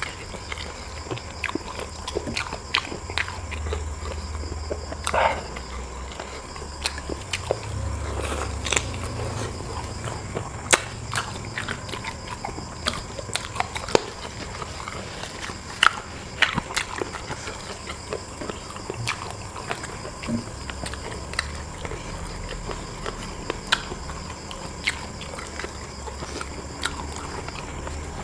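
Close-up eating sounds of a person chewing and biting food, with irregular sharp wet clicks and smacks, over a steady low hum.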